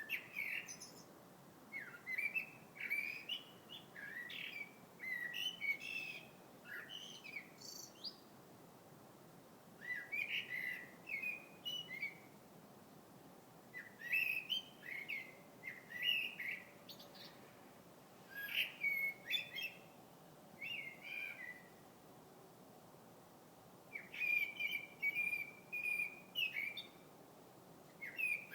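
A songbird singing: bouts of quick, varied chirping and warbling phrases, each a few seconds long, separated by short pauses.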